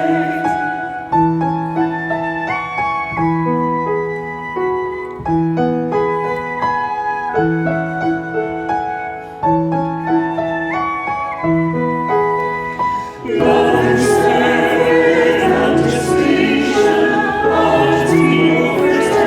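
Hymn music: a piano plays a slow passage of single notes over a repeating bass, and about thirteen seconds in a choir comes in singing with it.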